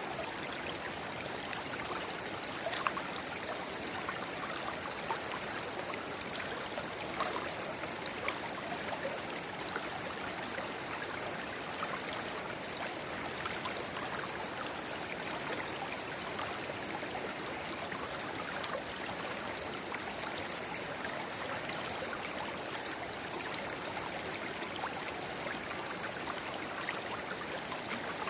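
River water babbling steadily over a shallow bed where a spring-fed rivulet runs into it, with small sharp water plinks and splashes scattered through.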